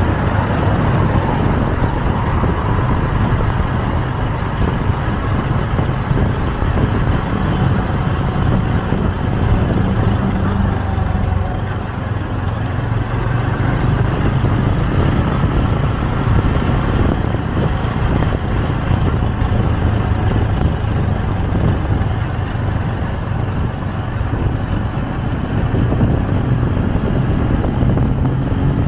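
Motorcycle engine running steadily under the rider, with road and traffic noise around it.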